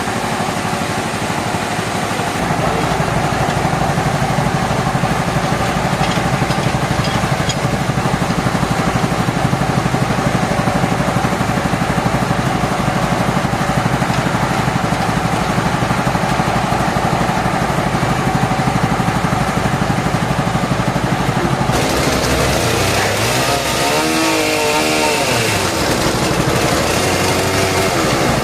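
Sawmill machinery running: a steady engine drone that gets louder about two seconds in. After an abrupt change about three quarters of the way through, its pitch swoops down and back up.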